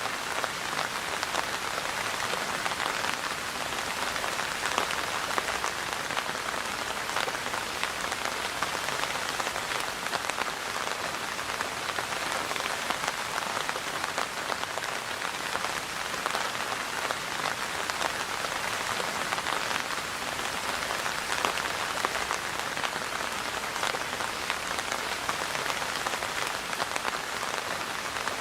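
Steady rain falling, a dense, even hiss of many small drops striking a surface, unchanging throughout.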